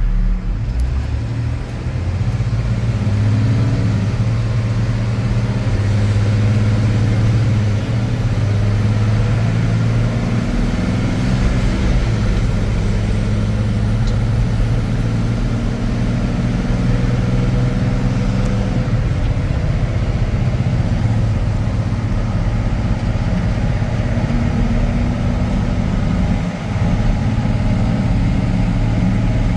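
Ford F-750's 6.7-litre Cummins turbo diesel engine running steadily, its pitch shifting a little now and then.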